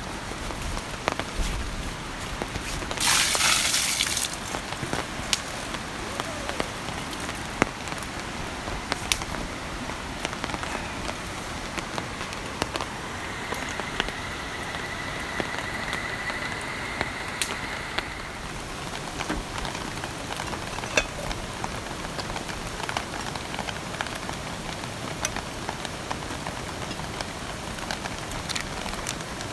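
Steady rain falling, with many scattered sharp drop taps. A short, louder hissing swell comes about three seconds in.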